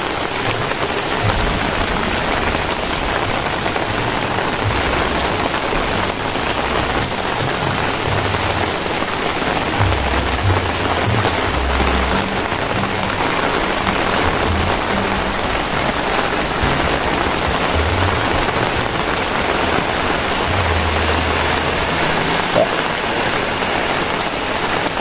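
Very heavy rain pouring down steadily, a dense unbroken hiss. Irregular low rumbles come and go underneath.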